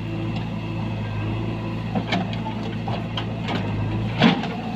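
Diesel engine of heavy machinery running steadily, with a few sharp knocks, the loudest near the end.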